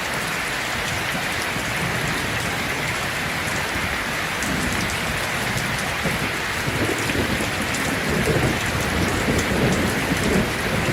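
Heavy rain drumming steadily on a tin roof, with fine crackling patter. A low thunder rumble builds in from about four seconds in and grows toward the end.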